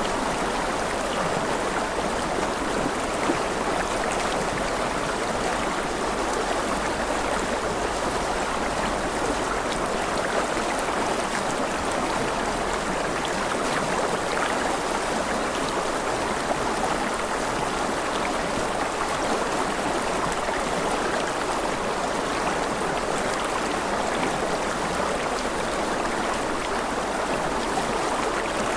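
Steady running water, like a stream, making an even rushing hiss that never breaks or changes.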